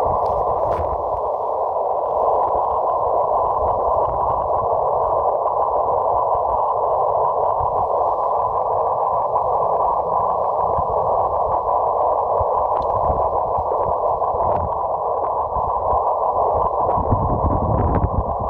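Microwave receiver audio on 47 GHz: a steady hiss held to a narrow band by the receiver's filter, as heard while listening for a weak rain-scattered signal.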